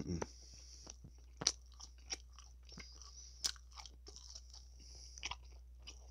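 Close-miked chewing of a mouthful of lamb gyro in pita: soft, irregular wet mouth clicks and smacks, with a few sharper crunches.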